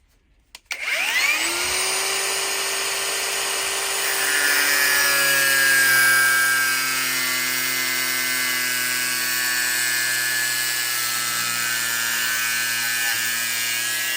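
Parkside Performance PWSAP 20-Li C3 cordless angle grinder switched on, spinning up with a rising whine, then running steadily at full speed with a high, many-toned whine, without any sound of it cutting or grinding into material.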